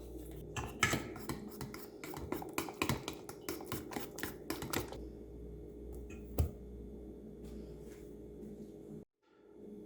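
Utensil clicking and scraping against a mixing bowl in kitchen prep: a quick run of sharp clicks, about three or four a second, for the first five seconds, then quieter handling with one louder knock, over a steady low hum. The sound breaks off briefly near the end.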